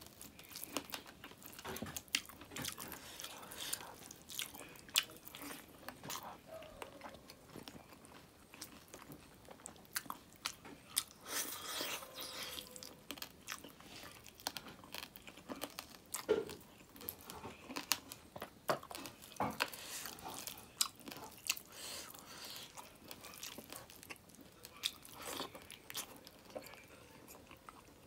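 Close-up mouth sounds of a person eating rice and smoked pork by hand: chewing and lip smacking with many sharp, irregular wet clicks and crunches.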